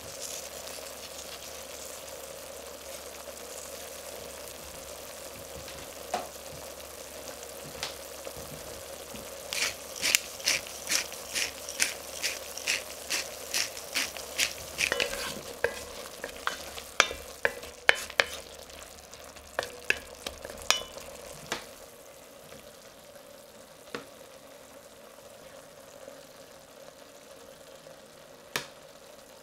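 Onions and mushrooms sizzling gently in red wine in an enamelled pot. In the middle a pepper mill grinds black pepper, with a run of sharp clicks about two a second for roughly ten seconds. A few single knocks come near the end.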